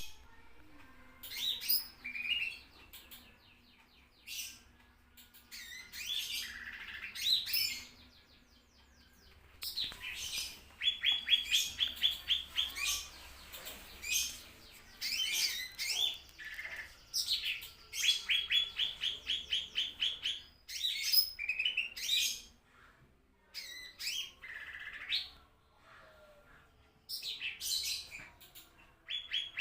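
Cucak ijo (green leafbird) singing in phrases of whistled glides and fast trills of repeated notes, with short pauses between phrases.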